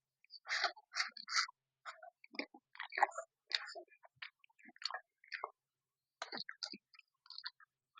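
Close-miked chewing and wet mouth clicks of a person eating, in irregular short bursts with a brief pause a little past the middle.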